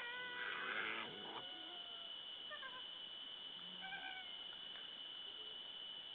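An unidentified wild animal calling: one pitched, cat-like call lasting about a second at the start, then two short calls about two and a half and four seconds in.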